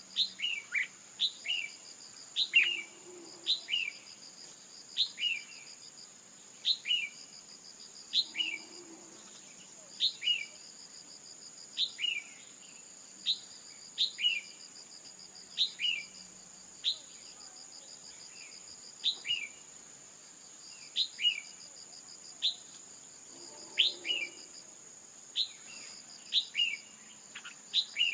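Red-whiskered bulbul calls, the female's call used to excite males into song: short, sharp chirps, each falling in pitch, repeated roughly once a second. Behind them runs a steady high insect drone with stretches of fast trilling.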